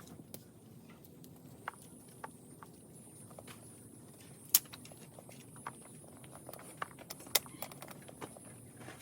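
Scattered light clicks and snaps, with two sharp louder cracks about halfway through and a little before the end, over a faint steady high-pitched tone.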